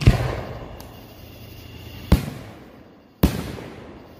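Fireworks exploding at a public display: three loud bangs, one at the start, one about two seconds in and one a second later, each trailing off over about a second.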